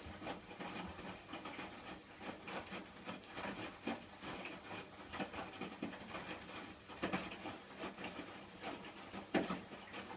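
Hotpoint washing machine in the wash stage of its cycle, not yet spinning: the drum turns and tumbles the wet load with irregular swishes and soft knocks over a steady low hum.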